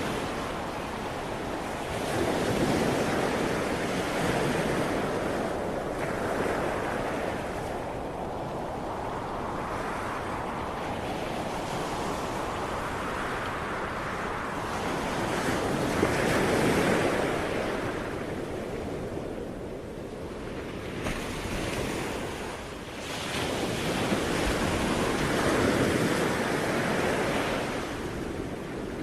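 Ocean surf: waves breaking and washing in, a steady rush that swells and falls back in slow surges several seconds apart.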